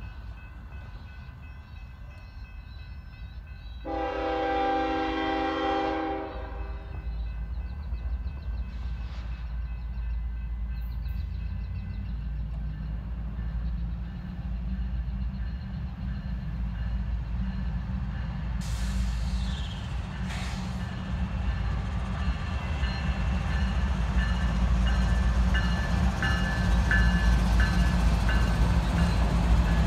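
Diesel freight train approaching: the locomotive's air horn sounds one chord of about two seconds, over a steady deep engine rumble that grows louder as the train nears.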